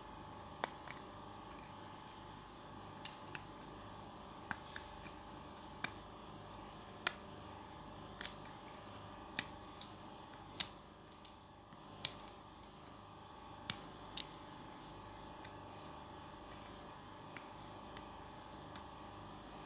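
Sharp, irregular clicks and crackles, roughly one a second, as the skin of a bitter kola nut is peeled off by hand.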